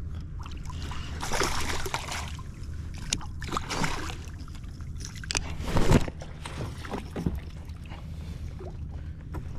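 Water splashing and sloshing beside a kayak in several bursts, the loudest about six seconds in: a hooked bass thrashing at the surface as it is fought to the kayak.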